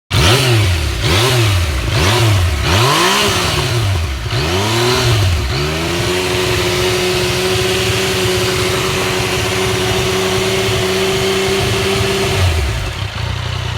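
Yamaha FZ-09's three-cylinder engine through a loud Toce slip-on exhaust, blipped in several quick revs that rise and fall, then held at steady high revs for about six seconds before dropping back toward idle near the end.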